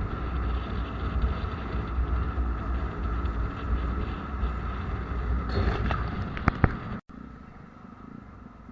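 Steady rumble of a running vehicle with wind buffeting the microphone, with a few sharp ticks near the end, then an abrupt cut about seven seconds in to much quieter background.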